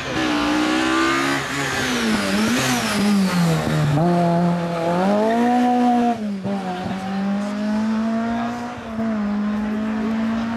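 Rally car engine revving hard as the car passes and accelerates away. Its note climbs and drops back several times as it shifts up through the gears.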